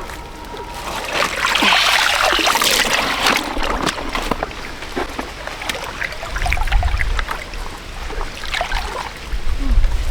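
Water splashing and trickling, with scattered short knocks and clicks, loudest about a second to three and a half seconds in.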